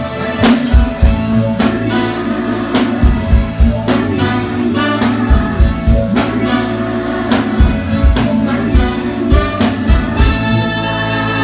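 A live band playing, with drum-kit hits and kick-drum thumps keeping a steady beat over held notes from pitched instruments.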